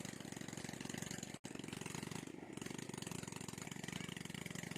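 Small engine running steadily with a fast, even beat. The sound drops out for an instant about a second and a half in.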